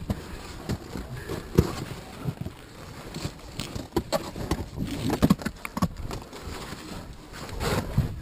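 Irregular knocking and scraping of climbing boots and gear on rock and snow, a few sharp clicks a second at uneven spacing.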